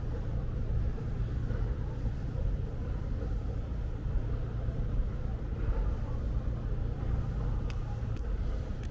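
A steady low rumble of distant city traffic under light rain, with a couple of faint ticks near the end.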